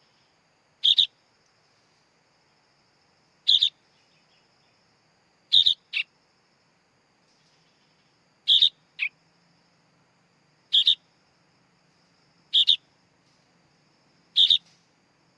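Sooty-headed bulbul (kutilang) chick calling: short, sharp high calls repeated about every two seconds, seven in all, two of them followed quickly by a shorter second note.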